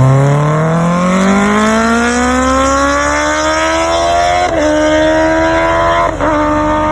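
Kawasaki Ninja ZX-10R's inline-four engine through an aftermarket full-system exhaust, accelerating hard: the pitch climbs steadily for about four seconds, then holds high, broken twice by brief cuts about a second and a half apart.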